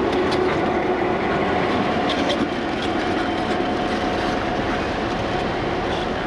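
Train running along the rails: a steady rumble with scattered clicks from the wheels.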